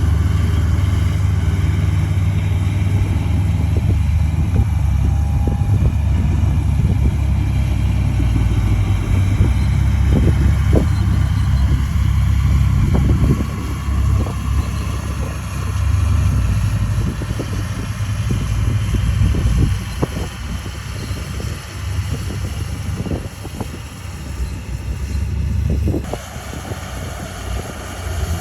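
Heavy diesel engine running under load, deep and steady, with irregular metallic knocks. It eases off and varies in level from about halfway through.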